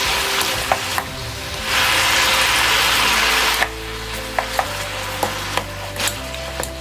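Sugar-coated pork ribs sizzling in a hot nonstick frying pan while a wooden spatula stirs them, clicking and scraping against the pan. The sizzle swells loudest for about two seconds in the middle, then falls back, leaving mostly the spatula's clicks.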